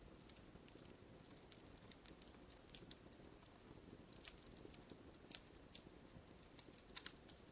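Faint campfire crackling: irregular small pops and snaps over a low hiss, a few a little louder than the rest.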